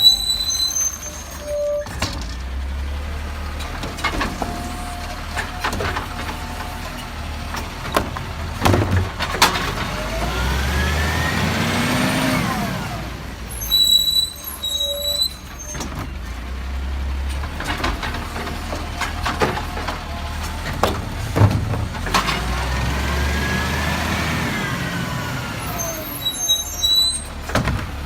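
Garbage truck's diesel engine running, revving up and settling back twice, with sharp knocks and short high-pitched brake squeals in between.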